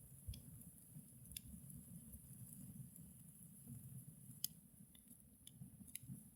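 Faint crackling of a small ritual fire: a handful of scattered, sharp pops over a low rumble.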